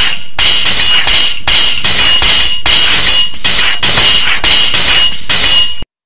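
Swords clashing repeatedly, sharp metallic clangs about twice a second, each with a ringing tone. The clashing stops abruptly near the end.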